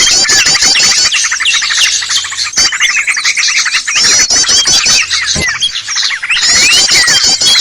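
Dense chorus of many small songbirds chirping and trilling over one another, with fast repeated notes and short rising and falling whistles. It is a bird-lure recording of mixed small-bird calls, meant to draw in small wild birds.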